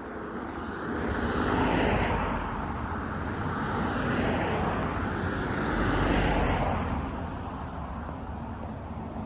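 Road traffic going past: two vehicles pass one after the other, their tyre and engine noise swelling up and fading away, the first about two seconds in and the second about six seconds in.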